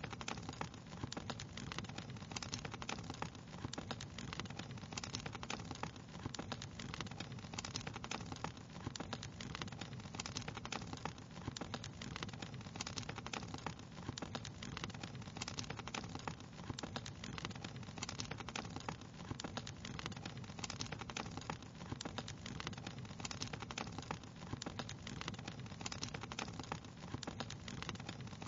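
Wood fire crackling steadily: many quick, irregular pops and snaps over a low, steady rumble of the burning fire.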